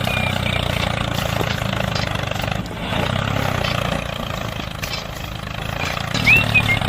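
DIY mini tractor running: a steady, even low engine rumble that dips briefly about two and a half seconds in.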